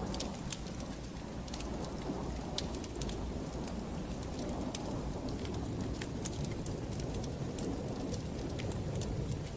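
Wood fire burning in a fireplace: a steady low rush of flames with many scattered sharp crackles and pops.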